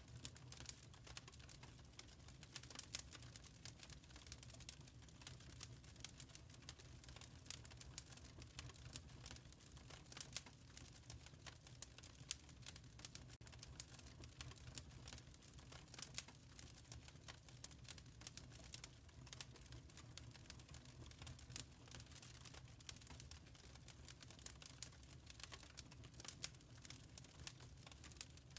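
Quiet wood fire crackling in a fireplace: irregular small snaps and pops over a soft, steady low rumble.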